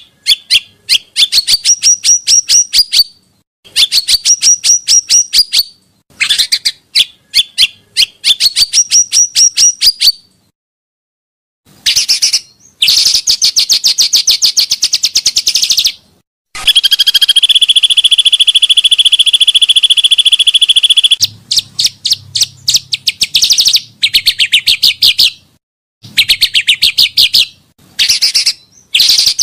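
Pancawarna bird calling: bursts of rapid, high-pitched chattering trills a few seconds long, with abrupt silent gaps between them. Around the middle comes one longer, steadier trill of about five seconds.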